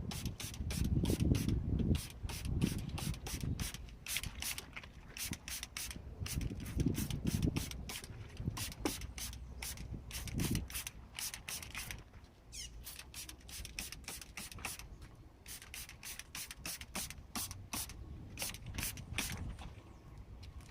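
Trigger spray bottle being pumped over and over, short hissing sprays a few a second with brief pauses, over low handling and rubbing noise.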